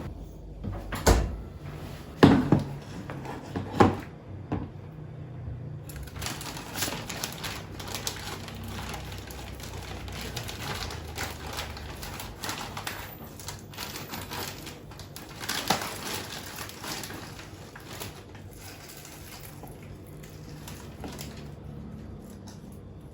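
A few sharp knocks of objects being set down, then a long run of small clicks and rustles from things being handled.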